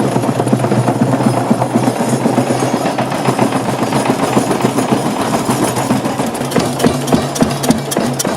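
Old 1928 Anton Schlüter stationary diesel engine running steadily, with a constant low hum under a rapid, even knocking.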